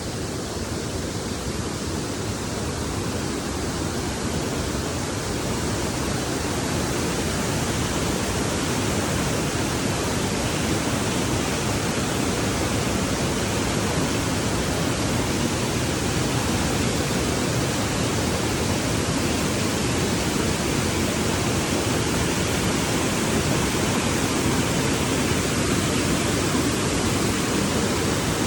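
Waterfall: a steady, dense rush of falling water, growing a little louder over the first several seconds and then holding even.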